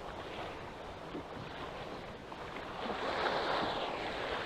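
Choppy waves washing against a small boat, with wind, and a louder surge of water about three seconds in.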